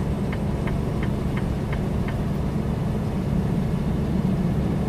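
Steady low drone of a heavily loaded semi-truck's diesel engine and road noise, heard inside the cab at highway speed. Faint regular ticking, about three a second, runs through the first couple of seconds.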